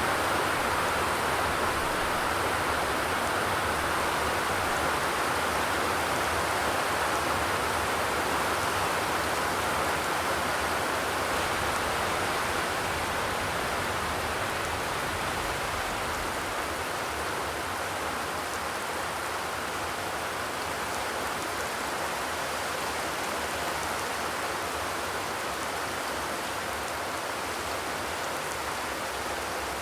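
Steady rain falling on a corrugated zinc roof, an even, continuous patter without thunder.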